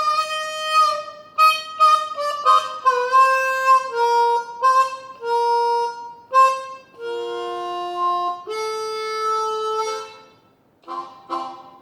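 Harmonica playing a blues intro: a run of short notes, then longer held notes and two-note chords. It pauses briefly near the end before a few more notes.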